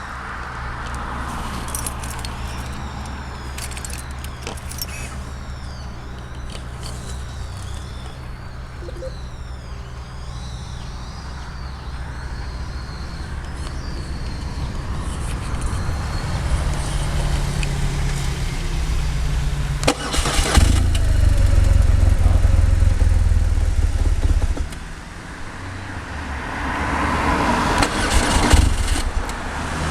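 Engine of a 1961 vehicle running unevenly, stalling. It runs steadily, gets much louder after a sharp click about two-thirds of the way in, drops away abruptly, then picks up again near the end.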